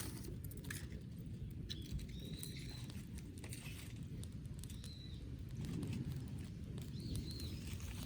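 A small bird chirping a few times, short rising-and-falling calls, over the scattered clicks and crackles of a campfire and a steady low rumble.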